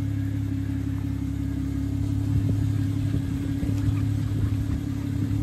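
Jeep Wrangler engine idling steadily.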